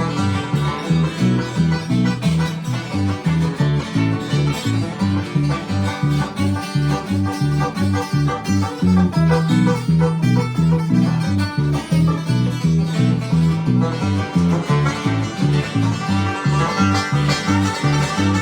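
Acoustic bluegrass played live: a slow five-string banjo number with an acoustic guitar keeping a steady alternating bass-note rhythm underneath.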